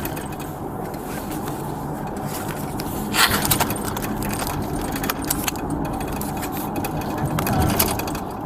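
Steady engine and road rumble inside a moving police patrol car, with scattered light jingling and rattling clicks and a louder rustle about three seconds in.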